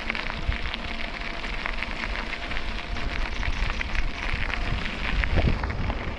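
Bicycle tyres rolling over a rough canal towpath, a dense steady crackle, with wind rumbling on the microphone.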